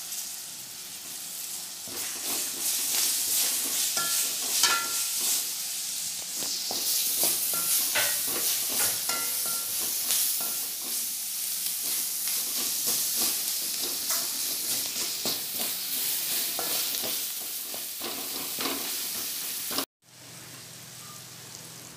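Sliced tomatoes and onion masala sizzling in hot oil in a metal wok, stirred with a perforated metal spoon that scrapes and clicks against the pan. About twenty seconds in the sound breaks off sharply and comes back quieter, with a low steady hum under the sizzle.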